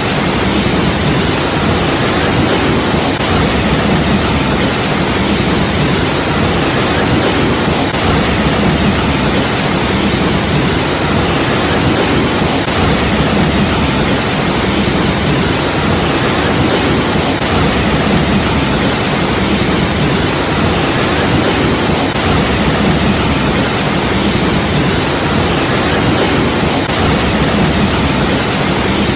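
Waterfall: falling water rushing in a steady, even roar that does not change.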